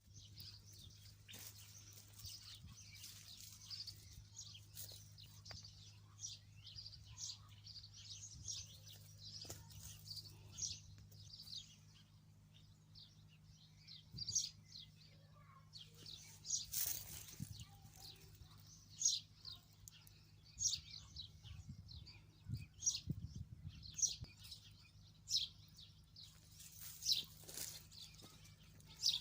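Wild birds chirping and calling, many short high notes scattered throughout, over a faint steady low hum.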